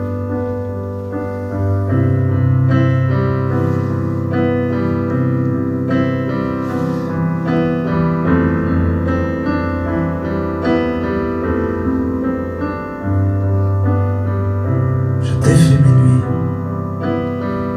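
Instrumental piano interlude: sustained chords over steady low bass notes, with a brief hiss near the end.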